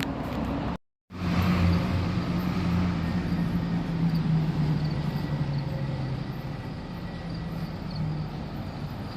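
A motor vehicle's engine running close by, a steady low hum whose pitch sinks slowly over several seconds. The sound drops out completely for a moment just before a second in.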